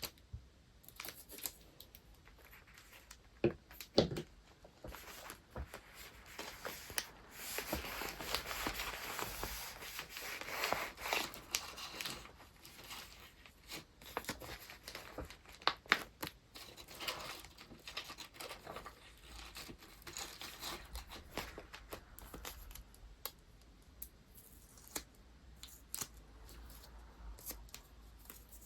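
Paper wrapping materials being handled, with rustling, crinkling and tearing that is heaviest for a few seconds in the middle, and a few sharp light knocks as items are set down.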